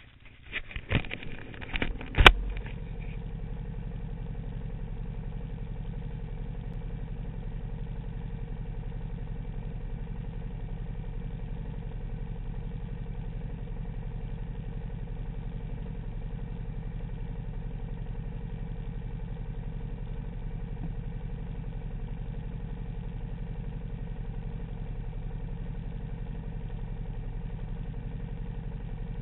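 Sport motorcycle's engine being started: a couple of seconds of irregular cranking and firing, a sharp pop as it catches, then a steady idle.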